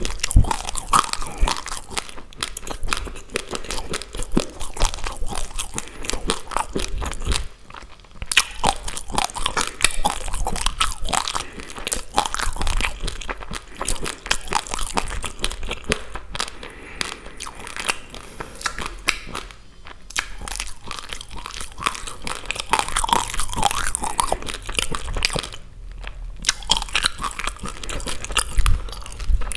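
Raw basmati rice being chewed close to the microphone: dense, rapid crunching of the hard grains between the teeth, pausing briefly three times.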